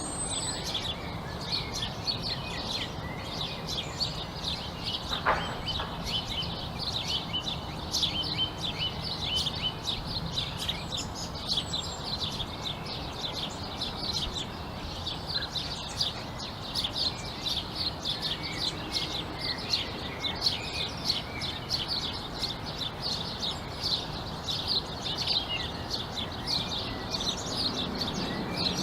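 A chorus of many small birds chirping busily and without a break, over a steady low background rumble.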